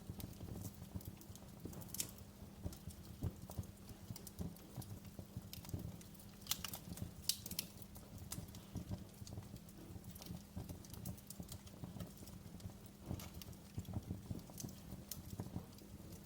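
Wood fire crackling, with irregular sharp pops and snaps over a low, steady rumble; the loudest pops come about halfway through.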